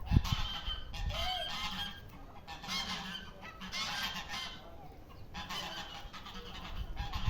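Farmyard poultry calling: about four loud calls in a row, each lasting around a second.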